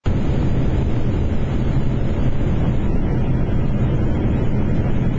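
Steady airflow and engine noise inside a Boeing 777 cockpit on final approach, a loud, low-heavy rush; the higher hiss eases a little about three seconds in.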